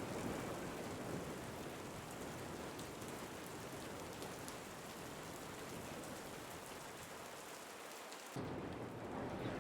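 Steady rain falling, with fine drop ticks through the patter. About eight seconds in it cuts abruptly to a deeper rushing sound.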